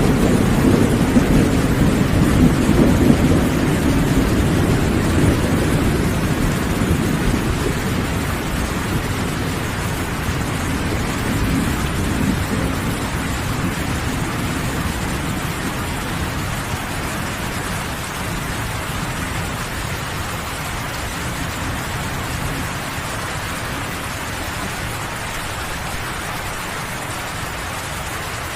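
Steady rain falling, with a long roll of thunder whose low rumble fades away over the first dozen seconds or so.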